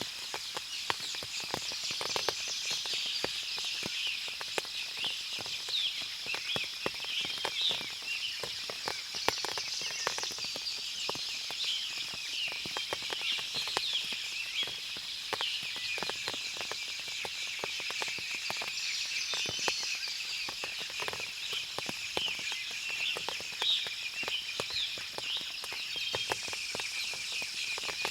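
Forest ambience after rain: many birds chirping over a steady high buzz, with small water drops ticking and pattering throughout.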